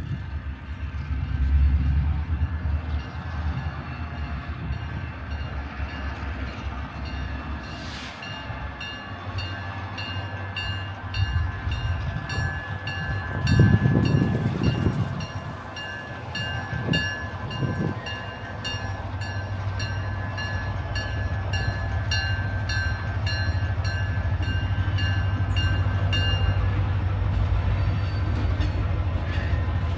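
A train passing by with a steady low rumble that swells loudest about fourteen seconds in, while a bell rings steadily about twice a second from about eight seconds in until a few seconds before the end, typical of a railroad crossing bell.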